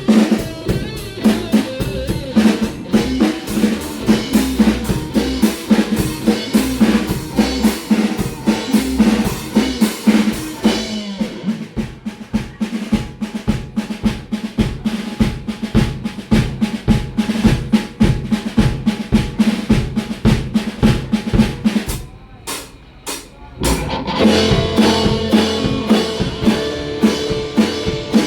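Rock band playing an instrumental stretch of the song, with the drum kit driving a steady beat. The sound thins out about eleven seconds in, drops almost out for a second or two near the end, then comes back in full.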